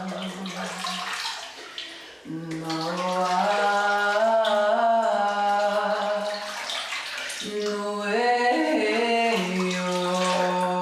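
A woman singing long held vocal tones with strong overtones, over the steady rush of running tap water. She breaks off for a breath about two seconds in and changes notes several times after.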